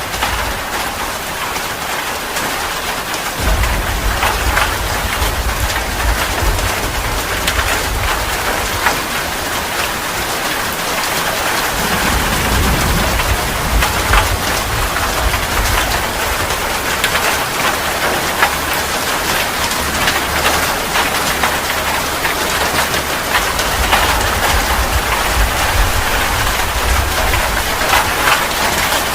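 Heavy rain pouring steadily, a dense hiss of drops on surfaces, with a low rumble of thunder underneath from about three seconds in that fades out near the end.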